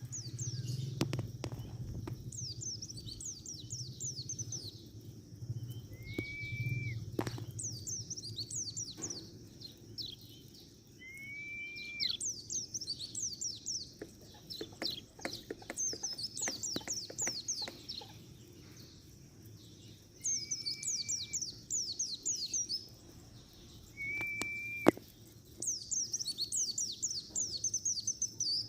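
White-eye (pleci) singing: bursts of fast, high, descending twittering notes lasting about two seconds each, repeated every few seconds, with a short clear whistle between phrases. Scattered sharp clicks come in between.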